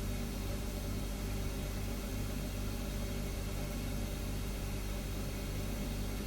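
Refrigerator humming steadily: a low, even drone over a soft hiss.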